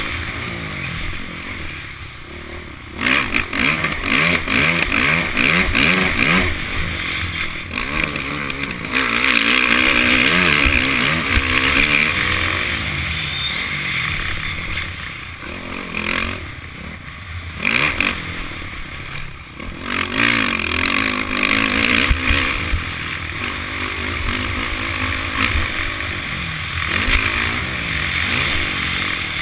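Honda CRF450 single-cylinder four-stroke motocross bike engine revving up and down as it is ridden hard around the track, heard on board. The revs drop off briefly a few times, about three seconds in and twice past the middle.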